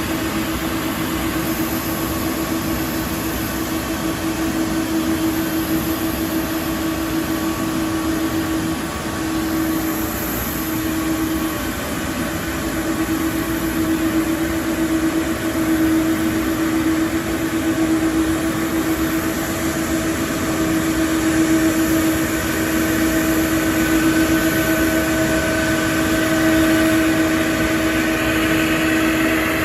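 Boeing 777-200ER's jet engines running steadily at low power with a constant whine over a broad rush, growing slightly louder over the last third.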